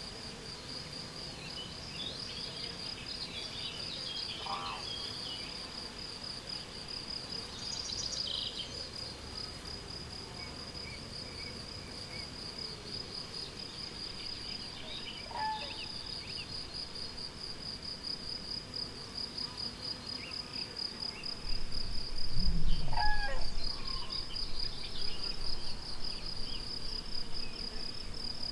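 Spring meadow ambience: crickets chirring in a steady, fast pulsing trill, with scattered short bird calls. About two-thirds of the way through, a louder low rumble rises for a couple of seconds and then eases.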